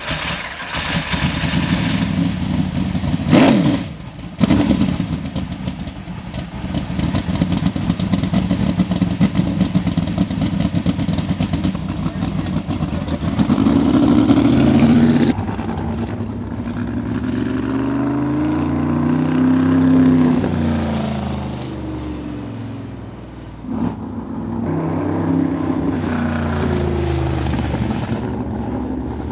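Sprint car's engine running loud and rough, blipped and revving hard, then driven round a quarter-mile oval, its note rising and falling in long sweeps as the car comes past and goes away.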